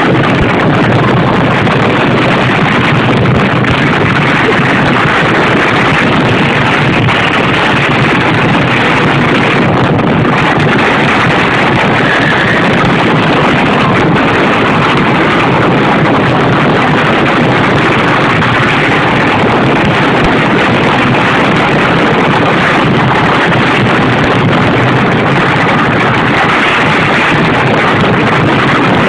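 Kentucky Rumbler wooden roller coaster train running along the track, heard from the front seat: a loud, steady rush of wind on the microphone over the rumble of the train, harsh and overloaded.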